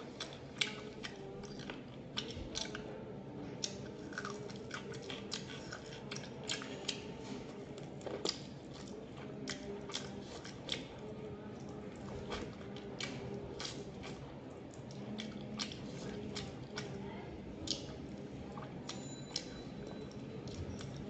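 A person chewing and crunching mouthfuls of rice with chicken curry and a crispy fried topping, eaten by hand: an irregular run of wet clicks and crunches, over a steady low hum.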